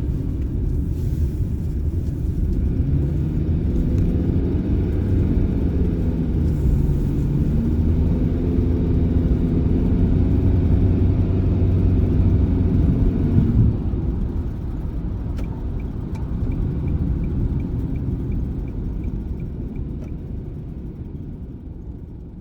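Nissan Serena minivan on the move: a steady engine and road rumble whose pitch climbs as the van gathers speed, then eases off about two-thirds of the way in. A light regular ticking at about three a second follows, and the sound fades out near the end.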